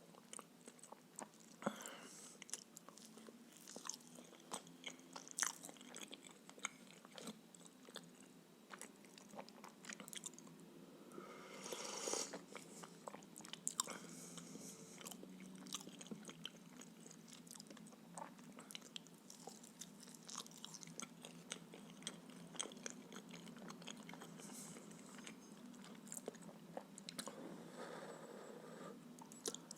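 Close-miked chewing of a blini pancake filled with peas, with many small mouth clicks and smacks. A briefly louder noisy sound comes about twelve seconds in.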